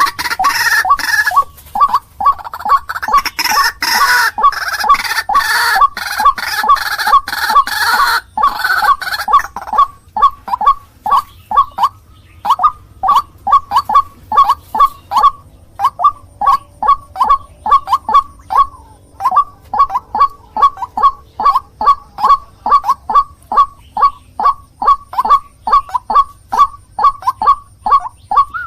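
White-breasted waterhen (ruak-ruak) calling: a loud series of short, repeated notes, about two to three a second. For roughly the first third the calling is denser and harsher, then it settles into a steady, even run of calls.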